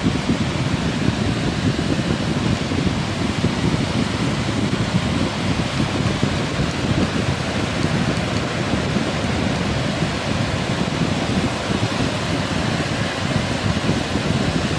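Heavy ocean surf breaking, a steady loud wash of noise, with wind buffeting the microphone.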